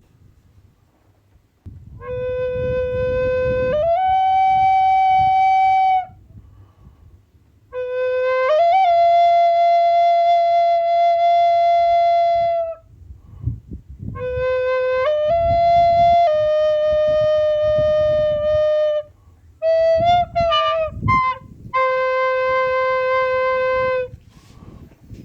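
A breathy wind instrument playing long held notes in four phrases. Most phrases start on a low note and step up to a higher one that is held for several seconds. One phrase, about two-thirds through, turns into quick fluttering notes before settling back on the low note.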